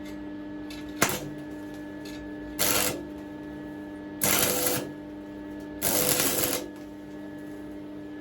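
A hand ratchet clicking in three short bursts as a nut is worked on, after one sharp metallic click about a second in. A steady hum runs underneath.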